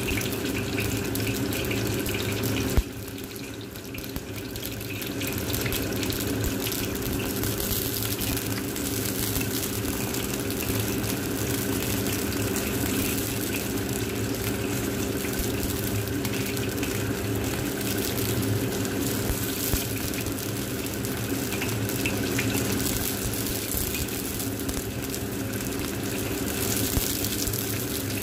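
Battered chicken fillet pieces frying in hot oil in a wok: a steady sizzle with crackles over a low hum. There is a single sharp knock about three seconds in, after which the sizzle drops briefly.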